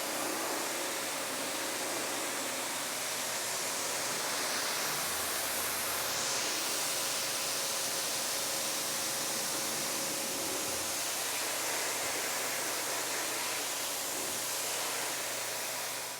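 Steady hiss of water spraying onto the car during the wash.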